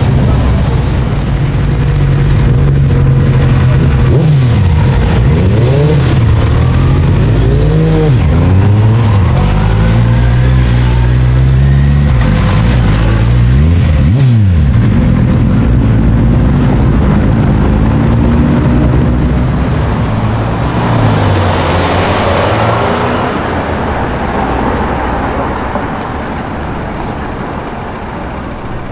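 Sports-car engines running at low revs as the cars drive past, a steady deep exhaust note with the pitch shifting as each one goes by; the level eases off late on.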